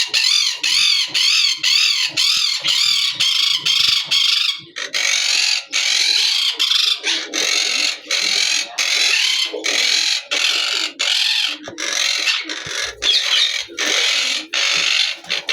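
Yellow (lutino) Indian ringneck parakeet calling in rapid, repeated shrill notes, about three a second. The calls turn harsher and noisier about five seconds in.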